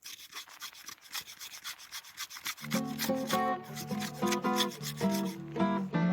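Quick, repeated rasping scrapes as small bits of fire tinder are shaved off. Acoustic guitar music comes in under the scraping about two and a half seconds in.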